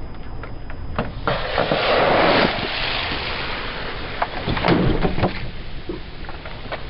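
A car tyre rolling over and crushing brittle objects: a dense crackling crunch that builds for about a second and a half, then a run of sharp cracks and snaps a couple of seconds later.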